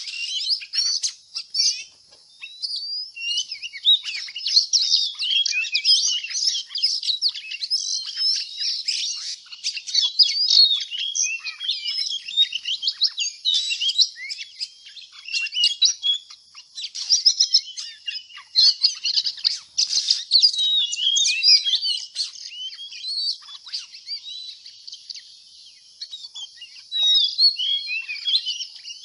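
Birds chirping and singing, a dense, unbroken stream of quick, high-pitched chirps and trills.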